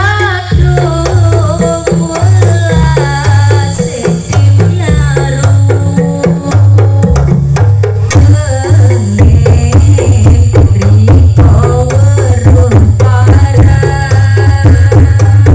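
Live East Javanese jaranan music: hand drums keep up a dense, heavy low beat under a wavering, bending melody line.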